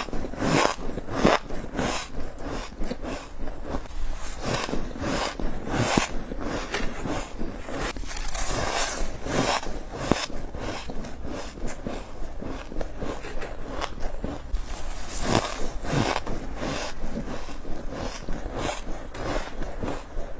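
Close-miked biting and chewing of freezer frost: rapid, irregular crunches, with a few louder, longer crunches now and then.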